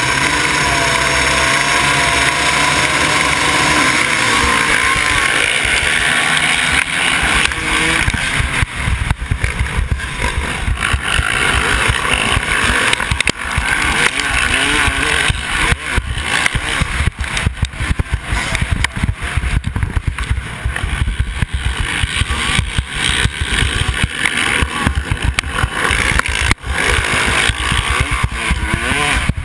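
Motocross dirt bike engines running hard on the track, revving up and down. For the first several seconds several engine pitches waver together; after that a choppy low rumble takes over, with the level jumping up and down rapidly.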